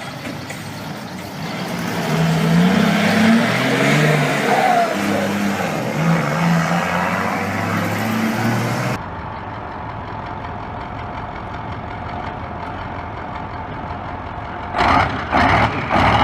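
Motorcycle engine revving, its pitch stepping up and down repeatedly. About halfway through the sound cuts abruptly to a steadier, duller engine noise.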